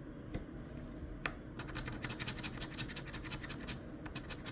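Scratch-off lottery ticket being scratched, its coating rubbed away in a rapid run of short strokes that starts about a second and a half in and stops shortly before the end, after a couple of single scrapes.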